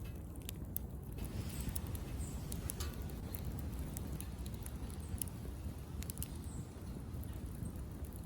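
Wood fire burning in a small wood stove: a steady low rush of flame with scattered sharp crackles and pops.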